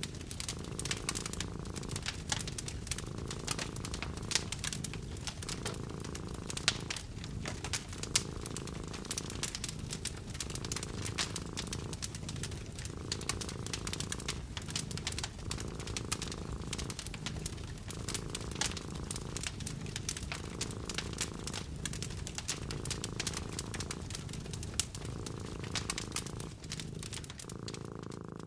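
Cat purring steadily, swelling and easing in slow cycles about every two seconds, over a wood fire crackling with frequent sharp pops.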